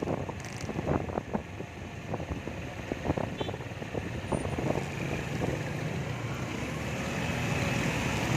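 A vehicle running, a steady low rumble with scattered knocks, growing a little louder near the end.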